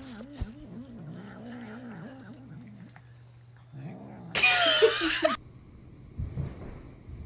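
Cat yowling in a long, wavering call, then a much louder, higher yowl about four seconds in that cuts off suddenly, over a steady low hum.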